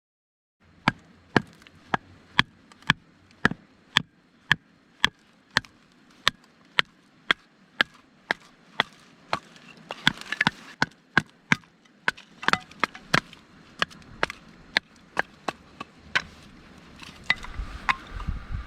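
Firewood being split by batoning a knife, the back of the blade struck again and again with sharp wooden knocks about twice a second.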